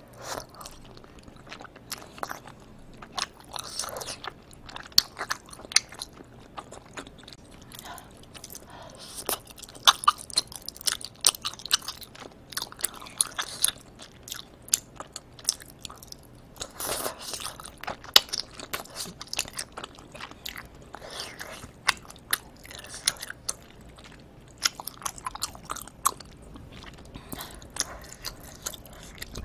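Close-miked mouth sounds of a person biting and chewing chewy Korean rice cakes (tteokbokki) in spicy sauce. Many sharp clicks come at an uneven pace.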